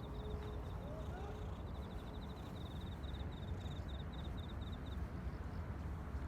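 An insect's fast, high-pitched pulsing trill, repeating in runs and stopping about five seconds in, over a steady low rumble.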